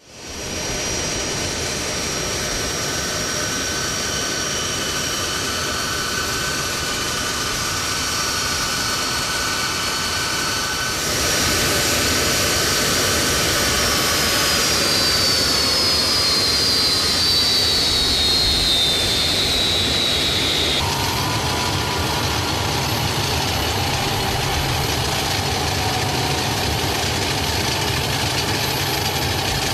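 Jet turbine engines running steadily, a loud rushing noise with a high whine. About eleven seconds in the noise grows louder, and a high whine then slides slowly down in pitch. Around twenty seconds in the sound changes abruptly to a lower, heavier hum.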